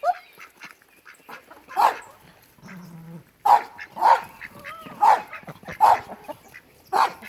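An animal giving about six short, loud calls at irregular intervals, mostly in the second half.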